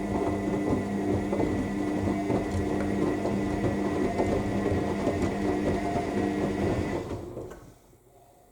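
AEG L7FE7461BI front-loading washing machine tumbling its drum during the main wash: the motor runs with a steady whine over the churning of wet laundry. About seven seconds in the drum stops turning and the sound dies away within about a second, the pause between turns of the wash action.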